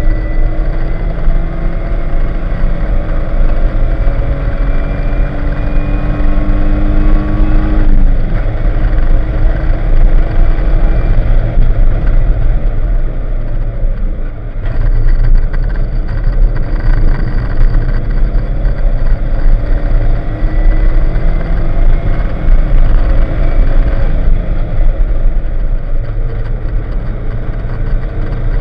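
Porsche 944's 2.5-litre four-cylinder engine heard from inside the cabin under hard acceleration on track. Its pitch climbs steadily until it falls sharply about eight seconds in, drops low around the middle, then climbs again until another fall near the end. A rushing noise runs underneath throughout.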